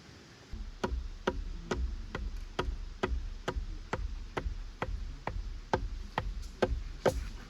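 A steady run of sharp knocks, a little over two a second, about fifteen in all, starting about half a second in, with a low rumble beneath them; typical of repeated tool strikes such as chopping or hammering at camp.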